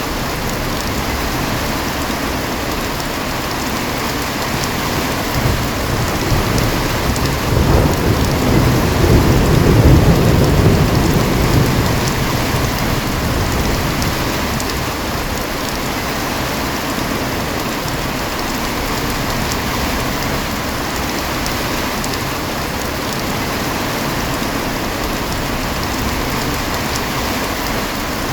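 Heavy rain falling steadily, with a roll of thunder rumbling up about five seconds in, loudest around ten seconds and fading away a few seconds later.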